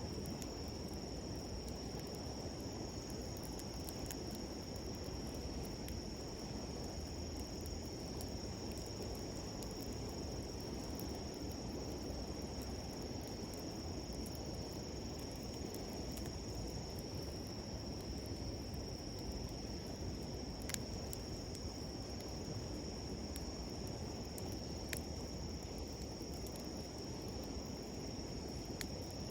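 Insects chirring in one steady high trill over the low, even rush of a flowing river, with a few faint crackles from a wood campfire.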